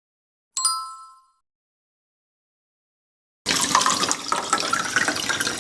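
A single bright chime rings out and fades within about a second. A couple of seconds later a kitchen tap starts running water into a sink, and it keeps running steadily.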